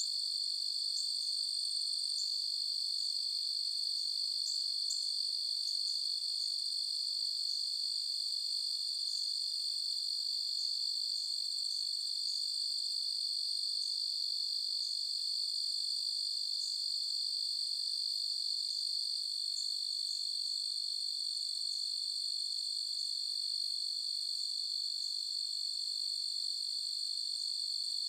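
A night chorus of crickets trilling steadily in a continuous high-pitched drone, with brief scattered chirps above it.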